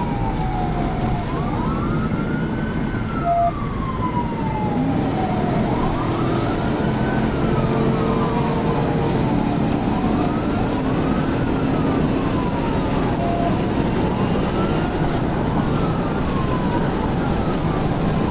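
Police cruiser siren wailing, slowly rising and falling in pitch about every four seconds, over steady engine and road noise during a high-speed pursuit.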